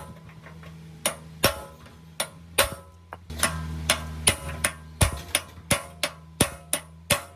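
Repeated sharp hammer strikes on metal with a short ringing, at an uneven pace of about two a second and quickening in the second half. A low steady hum runs under some of the strikes.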